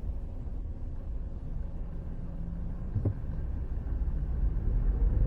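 Car driving: a steady low road and engine rumble that grows louder over the last second or so, with one short knock about three seconds in.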